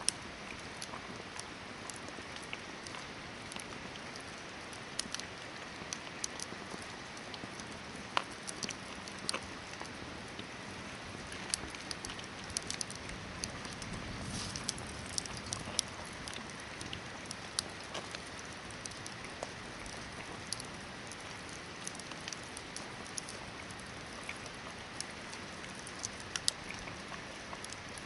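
Hardwood campfire burning: a steady hiss with irregular sharp crackles and pops throughout, and a soft low swell about halfway through.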